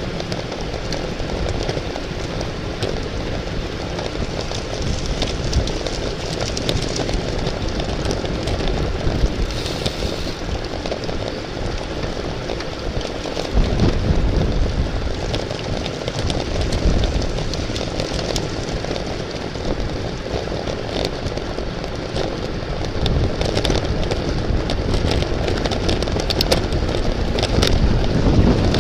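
Steady wind rush and road rumble on a microphone riding along with a bicycle at race speed. The low rumble grows stronger from about 14 seconds in.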